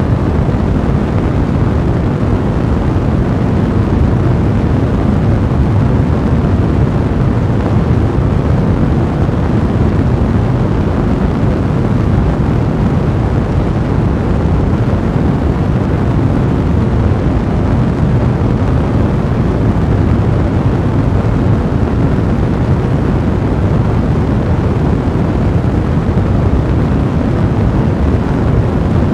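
Fire burning with a steady, low, even rushing rumble, weighted to the low end.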